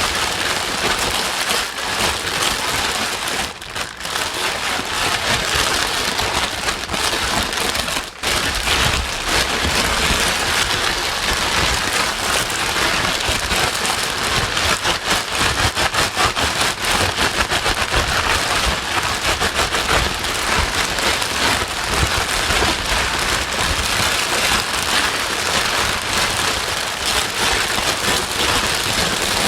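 Steady heavy rain: a dense hiss of rain on a surface with many close drop patters, dipping briefly twice in the first eight seconds.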